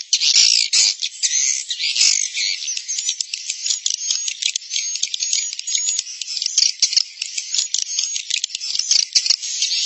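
Recorded edible-nest swiftlet calls: a dense, unbroken chorus of rapid twittering chirps and clicks with a thin, treble-only sound. It is a 'suara inap' lure track, played in swiftlet houses to draw the birds in to roost and nest.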